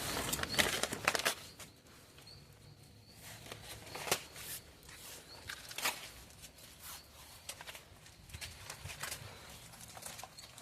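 Newly lit bonfire of paper and wood catching and crackling, with scattered sharp pops. A louder rushing noise fills the first second and a half, then dies down.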